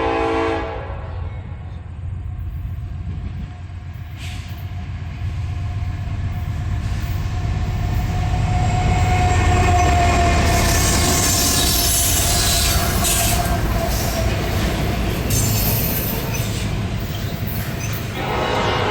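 Norfolk Southern intermodal freight train with three diesel locomotives passing. A low engine rumble builds over the first several seconds, then a steady rush of wheels on rail with a high squeal and hiss runs through the middle.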